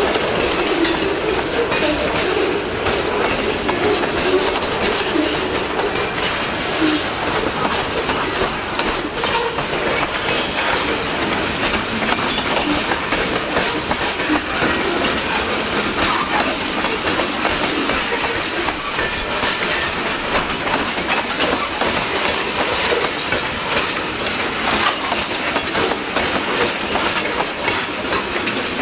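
Freight train's cars rolling past at a steady level, with wheels clacking over the rail joints.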